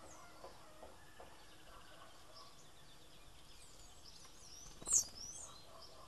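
Small birds chirping in short, scattered high calls, with one much louder, sharp chirp about five seconds in.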